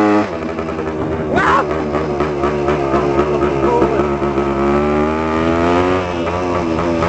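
Dirt bike engine running, its pitch wavering up and down with the throttle, then holding fairly steady from about six seconds in.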